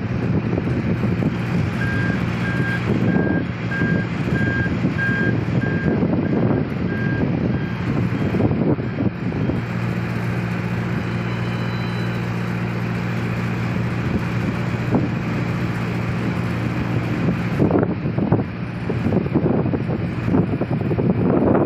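Dump truck's diesel engine running, with a reversing alarm beeping about once a second for around six seconds, starting about two seconds in.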